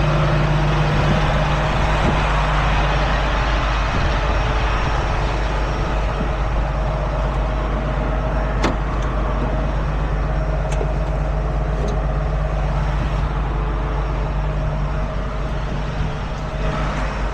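Heavy truck's diesel engine idling steadily, with a couple of light clicks partway through.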